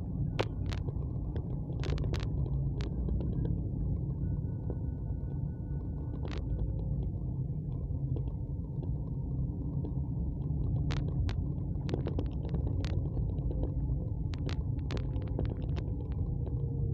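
Steady low rumble of a moving road vehicle with wind on the microphone, broken by many scattered sharp clicks and knocks.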